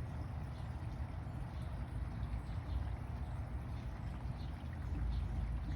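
Wind rumbling on the microphone outdoors, a steady low buffeting that strengthens near the end, with a few faint high chirps.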